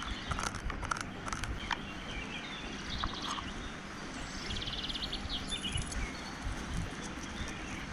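Outdoor ambience with birds chirping and trilling over a steady low rumble, with scattered clicks.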